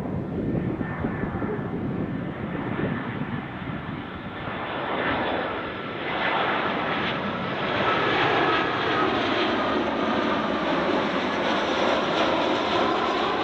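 Jet airliner on short final passing low overhead, its engine noise building and growing louder about halfway through, with a faint engine whine slowly falling in pitch near the end.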